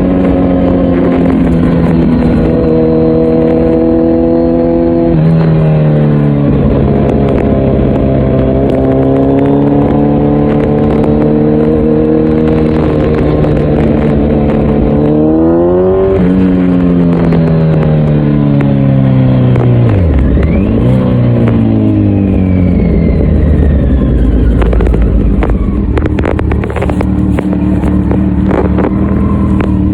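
Kawasaki Z900's inline-four engine through an Akrapovic full exhaust system, ridden on the road. It pulls up through the revs with a drop in pitch at an upshift about five seconds in, climbs again, then falls away on deceleration about two thirds of the way through and settles to a low steady note.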